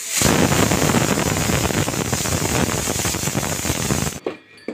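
Pressure cooker whistling: a loud rush of escaping steam with a fast rattle, which cuts off suddenly about four seconds in. This is the one whistle that marks the chicken gravy as cooked, so the heat can be turned off.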